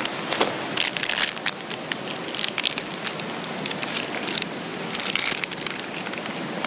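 Wood campfire crackling and snapping, in clusters about one second in and again about five seconds in, over the steady rush of a river.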